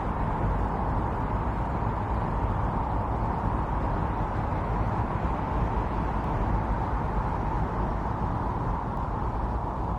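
Strong blizzard wind blowing steadily: a dense rushing noise with no gusts or breaks.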